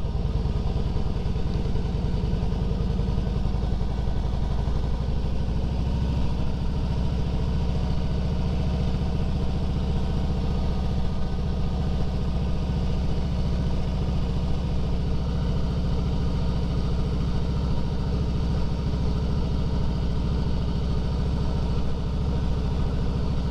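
Harley-Davidson Fat Boy's V-twin engine running steadily at low revs while the motorcycle is ridden.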